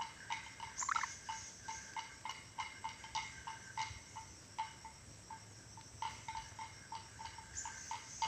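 Ornate lorikeet giving a long run of short, evenly spaced chirping notes, about three a second. A brief louder, rougher call comes about a second in.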